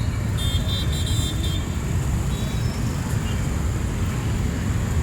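City street traffic: a steady rumble of passing road vehicles, with faint brief high-pitched tones about half a second to a second and a half in.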